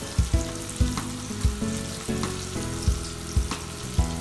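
Chicken drumsticks sizzling in hot oil in a cast-iron skillet, under background music with a steady beat.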